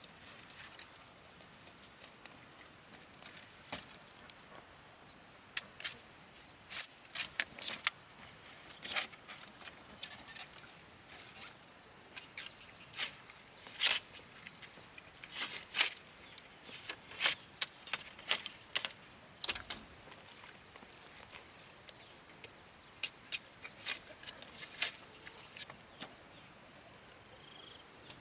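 Irregular sharp clicks and light knocks of hand work, some coming in quick clusters, over faint outdoor background noise.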